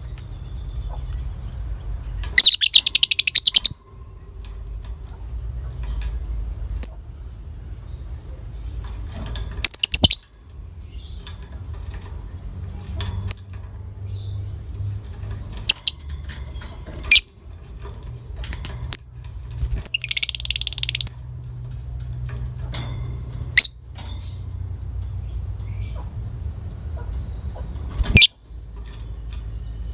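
Lovebird chattering: two rapid rattling trills, the 'ngekek', about two seconds in and again about twenty seconds in, with single sharp chirps scattered between them. A steady low rumble runs underneath.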